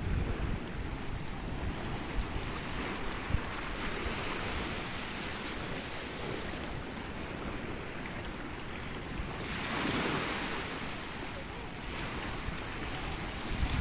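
Sea waves breaking and washing ashore, a steady surf with one wave surging louder about ten seconds in, and wind buffeting the microphone.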